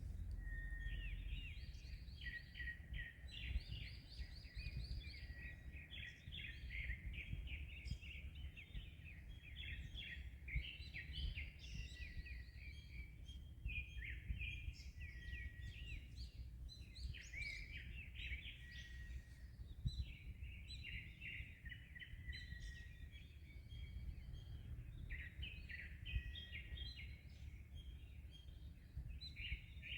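Several songbirds singing and chirping at once in quick, overlapping trills, with a steady low rumble of wind and waves underneath.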